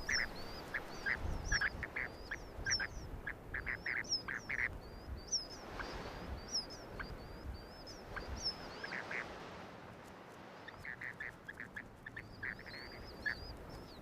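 Spoon-billed sandpiper chick and adult calling at the nest: a run of high, thin, gliding peeps over quick series of lower short notes, several a second. The lower notes break off for a moment near the middle and start again. An adult calling emphatically like this guides a cold, straying chick back to the nest.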